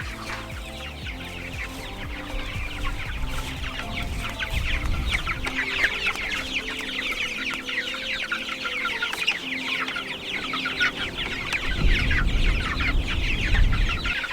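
A flock of young meat-bird chicks peeping together, a dense chatter of many short high calls that grows fuller a few seconds in.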